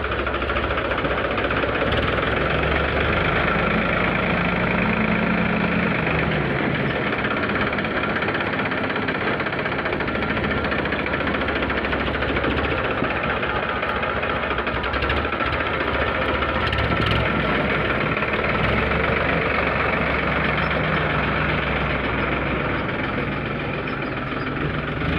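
Farmtrac tractor's diesel engine running steadily.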